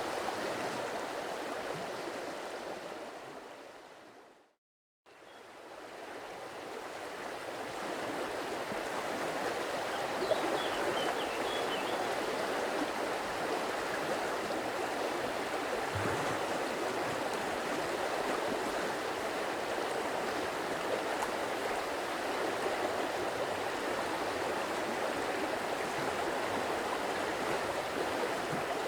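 Stream water flowing steadily over rocks. It fades out to a brief silence about four seconds in and fades back up over the next few seconds.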